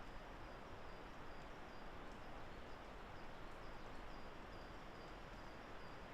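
Woodland ambience after rain: a steady background hiss with a faint, short, high note repeated every half second or so, from a small bird or insect.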